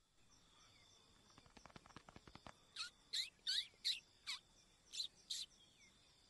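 Faint bird chirps: a series of about seven short chirps, each sweeping downward, preceded by a run of faint ticks.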